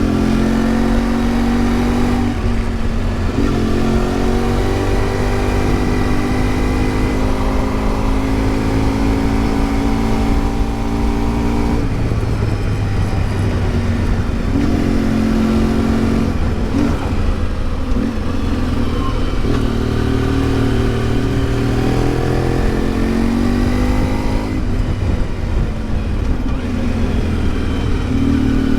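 Yamaha XTZ 750 Super Ténéré's parallel-twin engine pulling along a winding road, its note climbing under throttle and dropping back with each gear change or roll-off, about seven times over the stretch.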